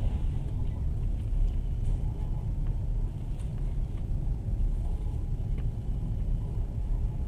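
Steady low rumble of a moving passenger train heard from inside the carriage, with a few faint ticks. A thin faint whine comes in about halfway through.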